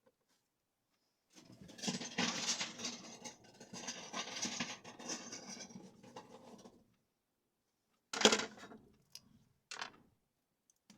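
Loose plastic Lego bricks rattling and clattering for several seconds as they are rummaged through, then one sharp plastic click and a few lighter clicks.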